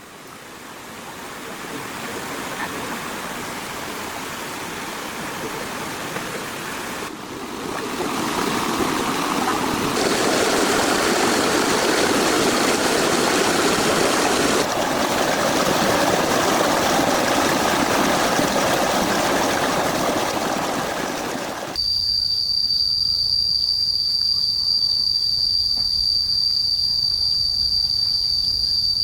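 Steady rushing noise like flowing water, which jumps in level at a few abrupt cuts. About three quarters of the way through it cuts off suddenly, and a steady high-pitched insect trill, typical of crickets, takes over.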